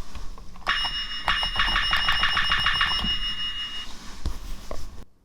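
A high electronic ringing tone, pulsing rapidly about five times a second for about three seconds, then a couple of knocks.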